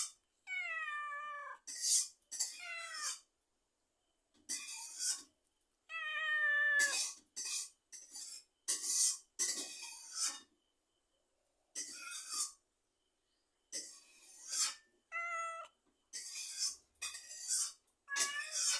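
A cat meowing again and again, about a dozen separate calls with short pauses between them, several falling in pitch as they fade.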